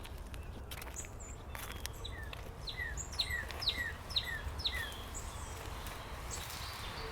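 A bird calling a run of about six sharp, falling notes, roughly two a second, over a steady low rumble of outdoor background noise.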